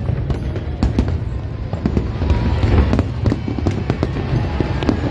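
Fireworks display: many aerial shells bursting in quick succession, with sharp bangs close together over a continuous deep rumble.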